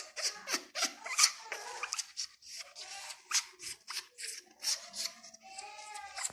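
Parrot chattering: rapid clicks and rasps mixed with short, bending whistle-like calls, with a longer pitched call near the end.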